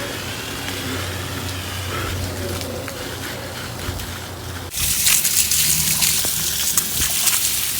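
A garden hose spraying cold water over a person for a shower. A quieter stretch with a low steady hum comes first, then a little past halfway the spray starts suddenly as a loud, even hiss of gushing water.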